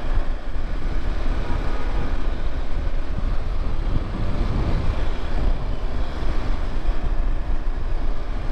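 Motorcycle engine running steadily while riding on a road, under a heavy low rumble of wind on the microphone. About halfway through there is a brief swell that rises and falls.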